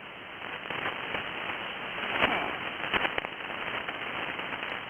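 Radio receiver hiss on the AM ham band, full of crackling static crashes from lightning, with the strongest crashes about two and three seconds in.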